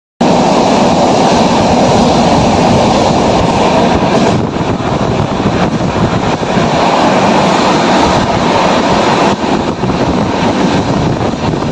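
Loud, steady running noise of an Indian Railways express passenger coach travelling at speed along the track, heard from inside the coach.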